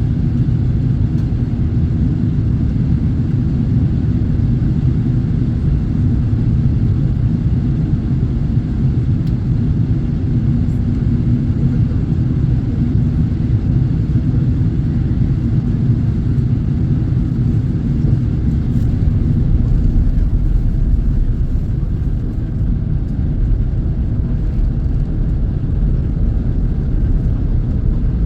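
Airliner cabin noise: a steady low rumble of jet engines and airflow with no distinct events.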